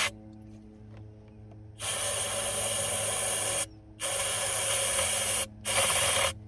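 Aerosol can of starting fluid sprayed into an engine's air intake in three hisses: about two seconds, a second and a half, then a short one near the end.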